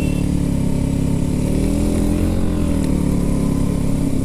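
Motorcycle engine running under way, its note rising slightly and then easing back down.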